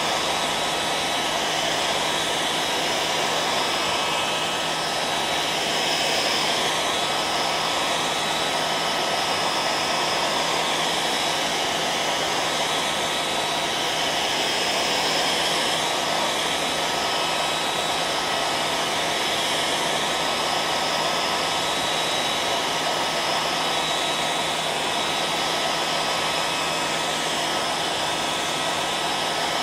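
Hair dryer running continuously: a steady rushing blow of air with a constant motor whine, unchanging throughout.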